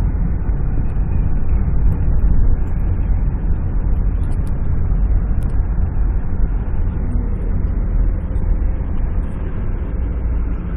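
Lifted Jeep Cherokee driving through snow, heard from inside the cabin: a steady low rumble of engine and road noise.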